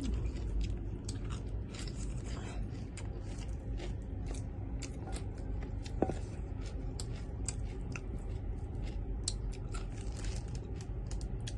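Chewing close to the microphone: many short, irregular mouth clicks over a low steady hum.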